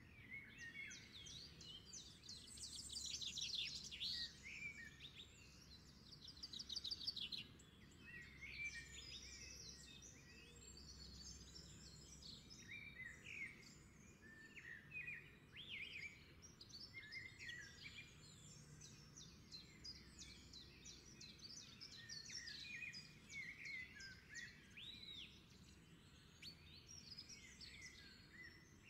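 Songbirds chirping and trilling, many short calls overlapping at a low level, over a faint low hum.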